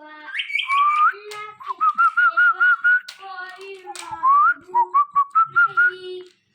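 Indian ringneck parakeet whistling: runs of quick warbling notes broken by upward-sliding whistles.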